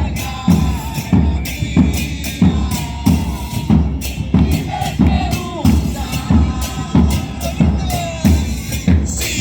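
Parade percussion group drumming a steady beat, heavy bass drum strokes about every 0.6 seconds with snare-type hits between, and faint wavering higher tones over the drums.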